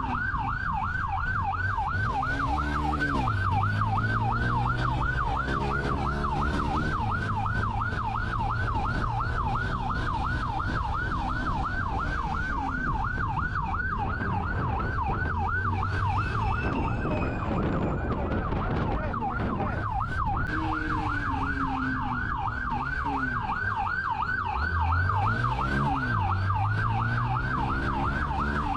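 Police car siren in a fast yelp, about three rising-and-falling sweeps a second, over the pursuing cruiser's engine revving up and falling back through gear changes. The siren fades briefly a little past halfway, then returns.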